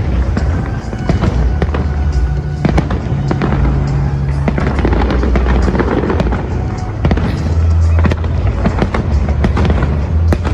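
Fireworks going off in quick succession, many sharp bangs and crackles, over loud music with a steady deep bass line.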